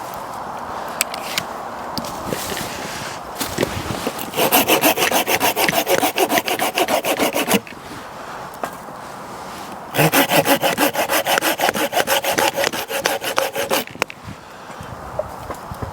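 Hand saw cutting through wood in two bouts of fast, even back-and-forth strokes, each about three to four seconds long, with a pause between them.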